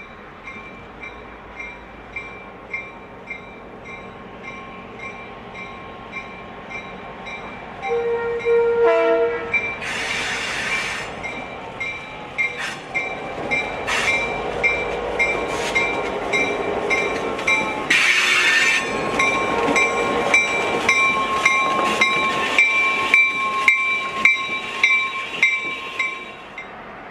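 EMD GP9 diesel locomotive approaching and passing while sounding its horn, getting louder from about eight seconds in, over a grade-crossing bell ringing about twice a second.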